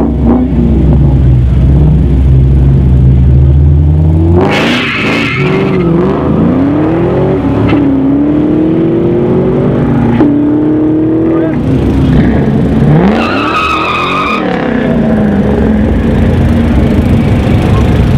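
Two drag-racing cars, a late-model Ford Mustang and a classic Chevrolet Camaro, rumble at the start line, then launch about four seconds in and accelerate hard down the street. The engine pitch climbs and drops back at each gear change as they pull away, and near the end a nearby engine idles low.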